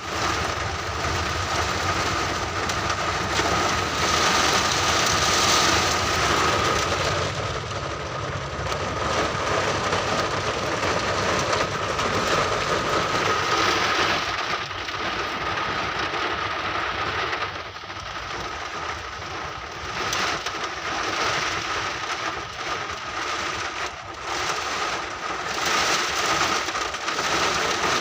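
Heavy rain driven by storm wind, a loud, continuous rushing that swells and eases in gusts, with a faint steady whistle.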